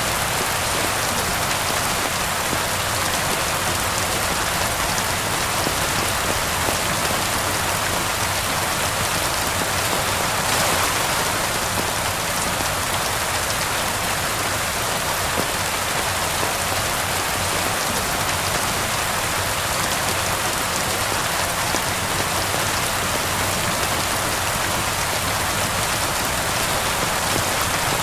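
Steady rain falling and pattering on surfaces, mixed with the crackle of a fireplace.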